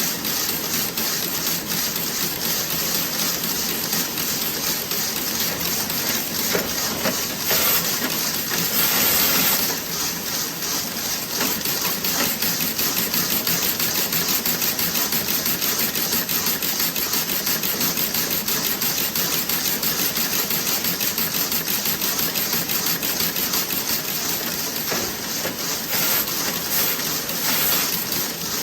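Toe-sock knitting machine running, a fast steady mechanical clatter. A couple of brief hissing blasts come about a quarter of the way in and again near the end.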